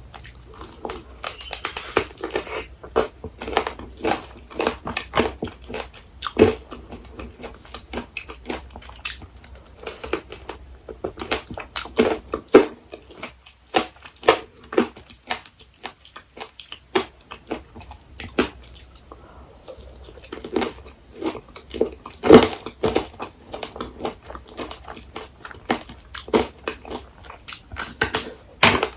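Close-miked crunching and chewing of apricot tanghulu: the hard candied-sugar shell cracking between the teeth in dense, irregular crackles, with a couple of short pauses.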